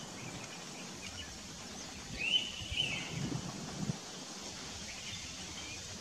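Indian pitta giving one short whistled call, rising then level, about two seconds in. Behind it is a steady outdoor hiss, with a few soft low thumps in the middle.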